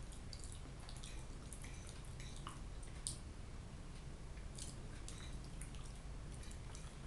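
Quiet eating: chewing fried potatoes with soft, wet mouth clicks and a few light fork taps, over a faint steady low hum.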